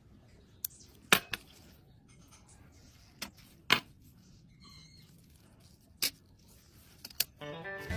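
Scattered sharp clicks and taps of small tools and parts during watch repair work, about eight separate clicks with pauses between them. Music comes in near the end.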